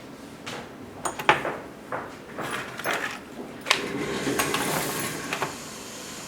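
Leatherworking tools being handled on a workbench: a string of irregular metallic clinks and knocks with scraping in between, the sharpest about a second in and near the middle.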